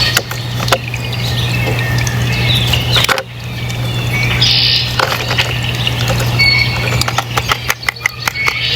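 Small birds chirping and calling in short high notes, over a steady low hum with scattered sharp clicks.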